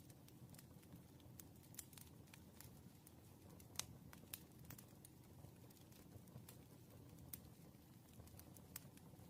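Quiet desk sounds of working through written practice questions: scattered light clicks and taps of a pen on paper and desk, the sharpest about four seconds in, over a low room hum.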